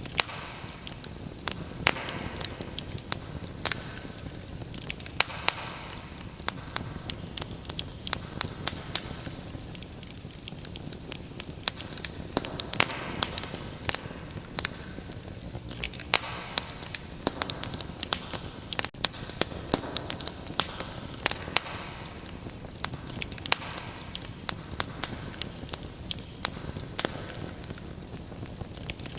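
Wood fire burning with frequent sharp crackles and pops at irregular intervals over a soft steady hiss.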